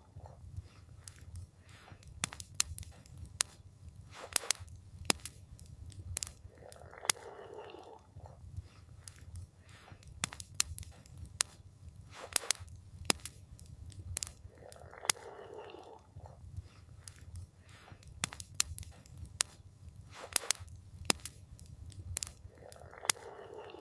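Campfire crackling: irregular sharp pops and snaps of burning wood over a steady low rumble. A soft, brief swell of noise comes back about every eight seconds.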